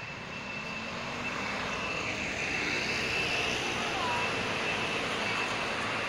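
A steady outdoor rushing rumble that builds over the first few seconds, with a thin, constant high tone above it and faint voices.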